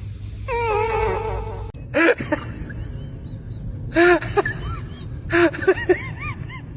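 Short high-pitched animal calls, repeated in several bursts, after one longer wavering call near the start.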